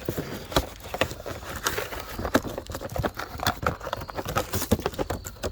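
Packaging of new heavy-duty rubber car floor mats being pulled open and handled: a dense run of irregular crackling and rustling with sharp clicks throughout.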